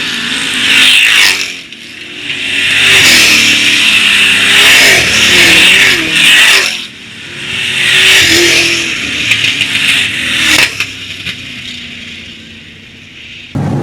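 Dirt-track race trucks running past at speed, engines revving and pitch sliding as they pass, in three loud waves with quieter gaps between, fading after about ten seconds. Near the end the sound changes abruptly to a steady, lower engine hum.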